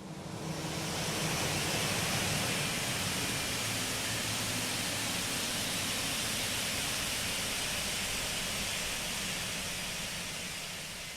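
Jet engine noise from a Boeing 737-800's CFM56 turbofans during the landing: a steady, loud rushing roar that builds over about a second and a half, holds, and fades away near the end.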